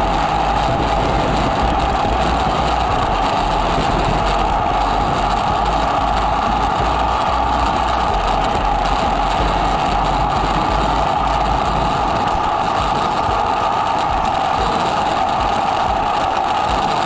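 Kawasaki W800's air-cooled parallel-twin engine running steadily at road speed through an aftermarket muffler, heard from right beside the engine, with gusty wind rumble on the microphone.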